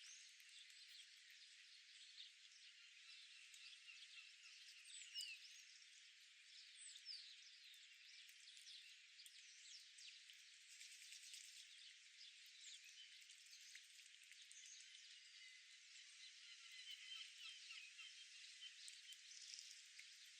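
Faint outdoor ambience: a soft steady hiss with scattered brief, high bird chirps throughout.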